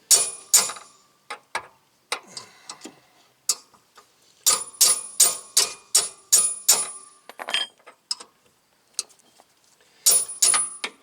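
Socket ratchet clicking in sets of sharp metallic ticks, with pauses between, as it turns out a hub bearing bolt that is stiff with thread locker.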